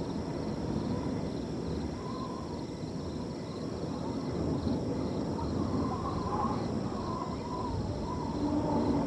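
Wind blowing steadily through a field, with crickets chirping in a regular high pulse throughout. A few short, low tonal animal calls come and go from about two seconds in.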